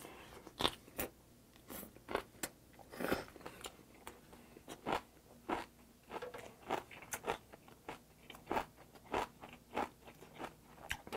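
Chewing crunchy stalks of mustard-leaf kimchi (gat kimchi) with rice: a run of crisp, irregular crunches, two or three a second.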